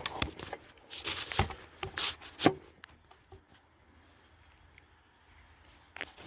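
Camera being handled and propped in place: rustling with several knocks and clicks, the sharpest about two and a half seconds in, then a few faint seconds before more clicks near the end.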